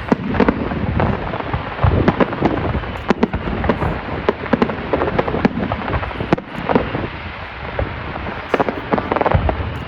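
Fireworks display: a dense, irregular run of bangs and crackling pops, several a second, easing slightly in the last few seconds.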